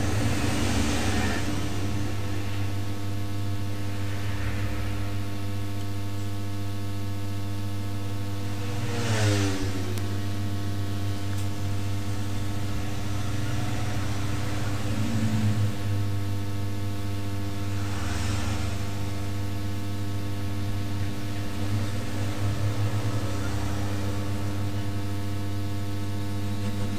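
A steady machine hum made of many evenly spaced tones, strongest low down. Brief louder swishes come about nine, fifteen and eighteen seconds in.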